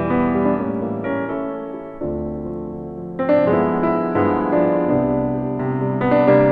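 Background piano music: slow chords struck every second or two, each ringing and fading before the next.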